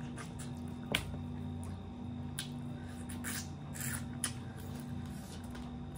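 Close-up eating sounds of a person chewing rice and fish curry taken by hand: scattered wet clicks and smacks, the sharpest about a second in, over a steady low hum.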